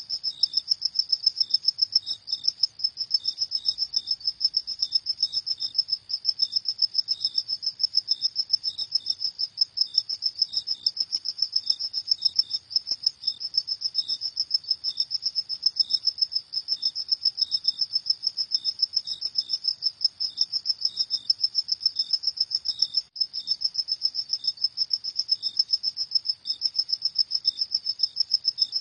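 Crickets chirping in a steady, rapid high pulsing, about five chirps a second, with a fainter second cricket chirping irregularly at a slightly lower pitch.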